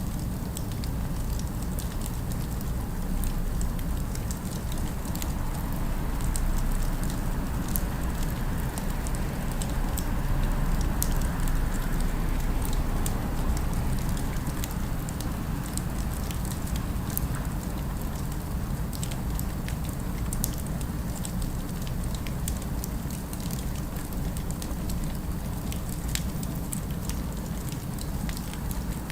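Fire crackling, with many small scattered pops over a steady low rumble of city ambience that swells slightly near the middle.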